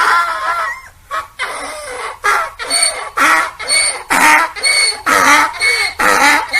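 Donkey braying: a long drawn-out call that dies away about a second in, then a quick run of alternating hee-haw calls, about two a second.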